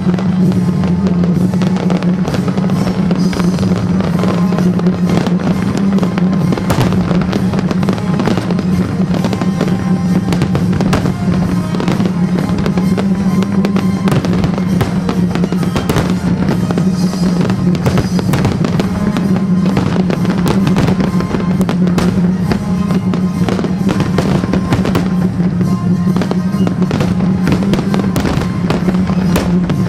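Aerial fireworks shells bursting in a rapid, unbroken barrage of bangs, heard over music.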